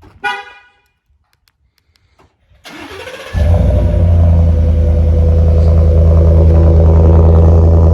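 Cold start of a Ford F-150's 5.0 Coyote V8 with a Flowmaster muffler. A short chime is heard first. About two and a half seconds later the starter cranks briefly, and the engine catches a little after three seconds in and runs at a loud, steady idle with a deep low hum.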